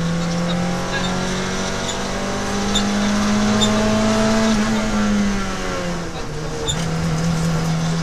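Peugeot 106 XSi rally car's four-cylinder engine heard from inside the cabin. It pulls hard with revs rising for about four seconds, drops away as the driver lifts, then pulls again near the end.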